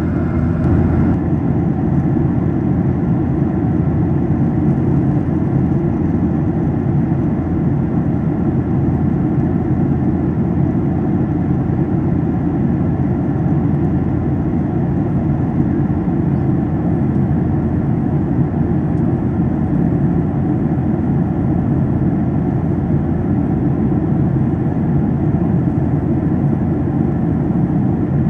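Boeing 737-800 cabin noise in flight: a steady, loud roar of the engines and airflow, deepest in the low end. The higher hiss drops a little about a second in.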